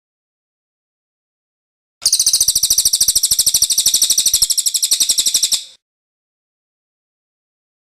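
A cililin bird's rolling trill (ngerol): one rapid, high-pitched trill of evenly repeated notes, lasting about three and a half seconds and starting about two seconds in.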